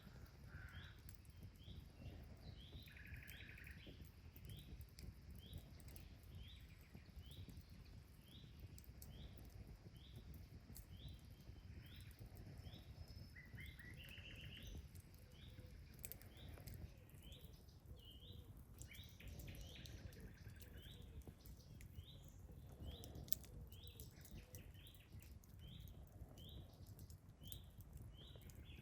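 Faint birdsong: one bird repeating a short high chirp about once a second throughout, with a few other birds' brief trills mixed in. Scattered faint crackles in the second half and a low steady rumble underneath.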